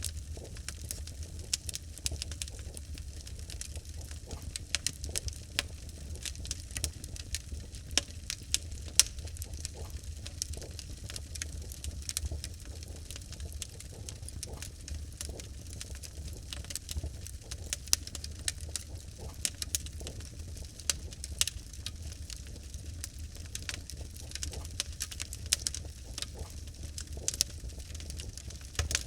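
Wood fire in a fireplace crackling, with frequent irregular sharp pops and snaps over a steady low rumble of burning logs.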